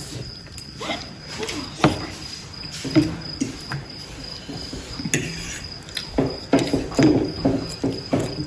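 A cricket trilling steadily on one high pitch, under the clicks and smacks of people eating momos: sharp clicks about two and three seconds in, busier chewing and plate sounds near the end.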